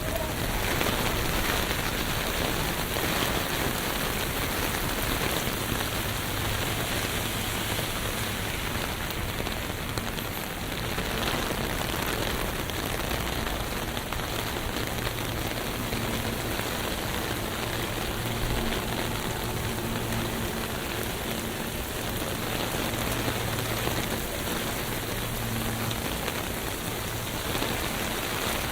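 Steady rain falling on a city street, an even hiss of drops, with a low steady hum underneath from about a third of the way in.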